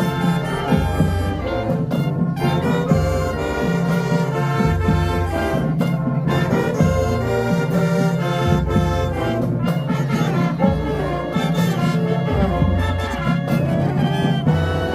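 High school marching band playing in the stands, brass led by trombones and trumpets over low sustained bass notes.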